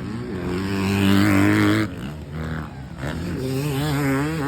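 Off-road motorcycle engine revving, its pitch wavering up and down. It drops off sharply about two seconds in, then a bike revs up again near the end.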